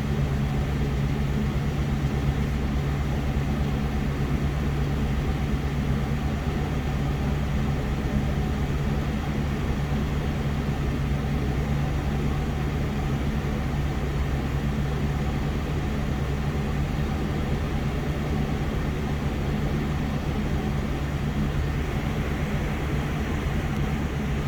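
A 1978 Camaro LT's 305 small-block V8 idling steadily on its cold-start high idle, running fast and even with nothing on the gas while the engine is still cold.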